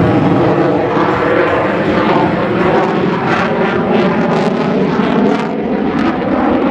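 F-22 Raptor's twin jet engines running loudly in a flight demonstration pass, a dense steady roar.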